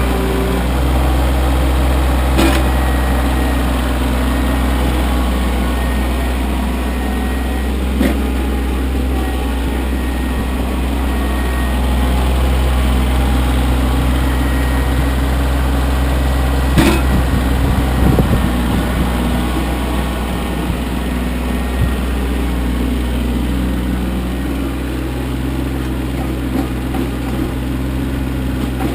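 Kioti CK25 compact tractor's three-cylinder diesel engine running steadily, with three sharp knocks.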